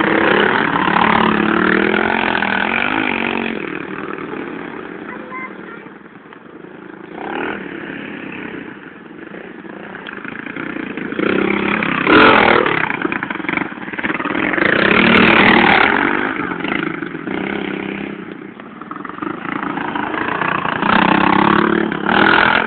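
Pit bike engines revving up and down as the bikes ride around, growing louder and fading away several times.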